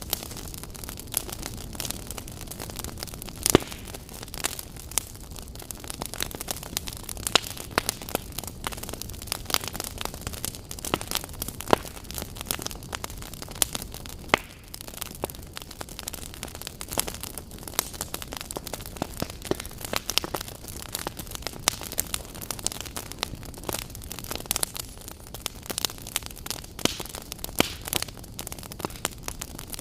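Wood fire in a fireplace crackling, with irregular pops and snaps over a steady low hiss; one sharp pop stands out a few seconds in.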